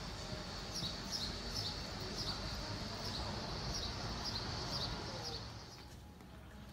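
Small birds chirping: a string of short, high, falling chirps, about two a second, that stops about five and a half seconds in, over a low rumble.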